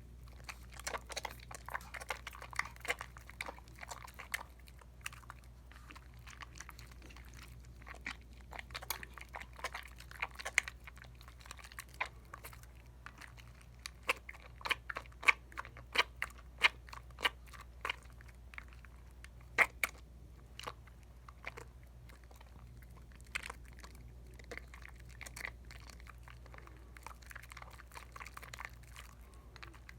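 Soap lather from a bar of Dial coconut soap being worked by hand: wet squishing with many irregular sharp pops and crackles of bursting bubbles, thickest in the middle stretch.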